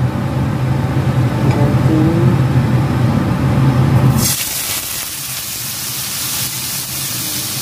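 A steady low hum, then about four seconds in a boneless chicken leg hits the hot fat in a wok and starts sizzling loudly, a sudden bright hiss that carries on.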